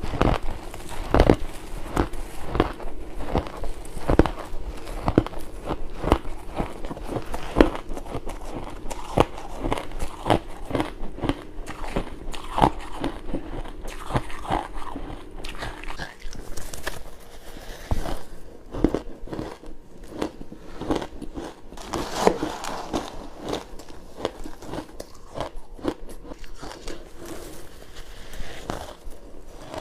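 Close-up biting and chewing of crunchy pink ice: frequent, irregular sharp crunches and crackles as the ice is cracked between the teeth.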